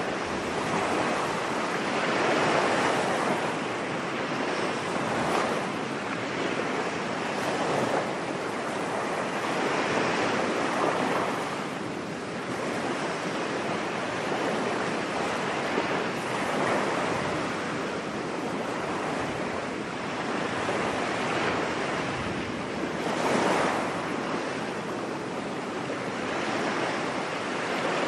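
Ocean waves washing onto a beach: a continuous rush of surf that swells and ebbs every few seconds.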